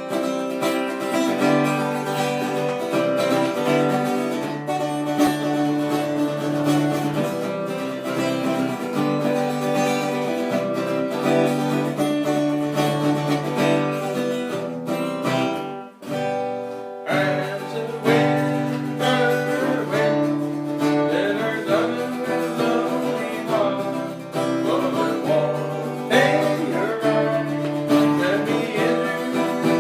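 Acoustic guitar music playing a song, with a singing voice over it in the second half. The music drops out briefly about halfway through, then picks up again.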